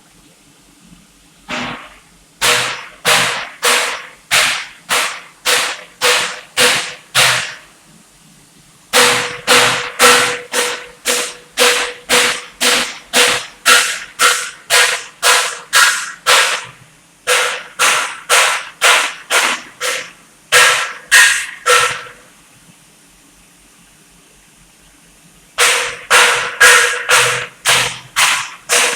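TIG welding arc in pulsed mode, buzzing in regular beats about twice a second, in three runs broken by short pauses and one longer pause of about three seconds.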